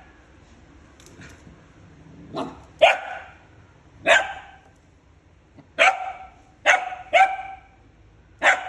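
A puppy barking: about seven short, sharp, high-pitched barks, singly and in quick pairs, starting a couple of seconds in, with quiet gaps between them.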